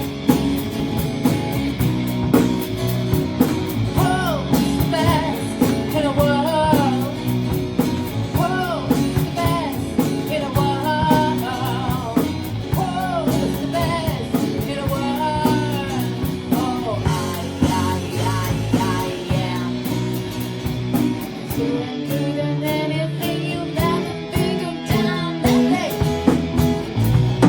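Rock band with drums and guitar playing a blues-rock song, with a bending melody line over the band for much of the first two-thirds.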